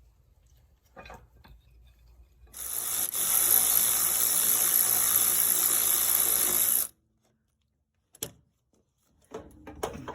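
A loud, steady hiss of air or liquid spraying for about four seconds, starting about two and a half seconds in and cutting off abruptly. Light tool clicks come before it.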